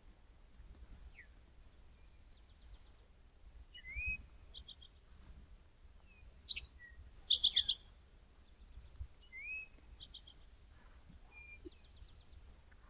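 Songbirds calling in woodland: short chirps and slurred whistled notes mixed with quick rattling series of notes, the loudest phrase about seven seconds in.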